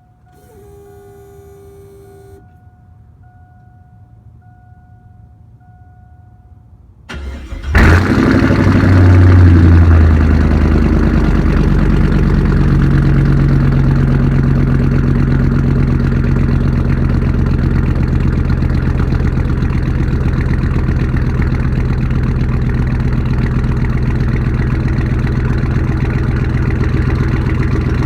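A repeating electronic chime beeps steadily with the key on. About seven seconds in, the 2002 GMC Sierra's 5.3L Vortec V8 cranks briefly, catches with a loud flare and settles into a steady cold-start idle through straight Y-pipes with no mufflers.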